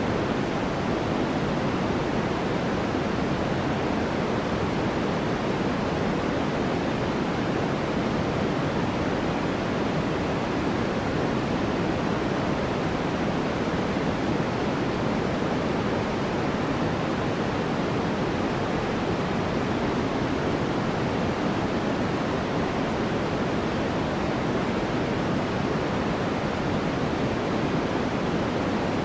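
Steady, unchanging white noise for sleep: an even rushing hiss with no breaks, fuller in the low and middle range than in the highs.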